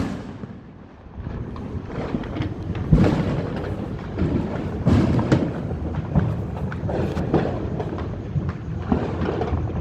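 Fireworks going off: a run of booms at uneven intervals, the loudest about three, five and seven seconds in, with crackling snaps between them.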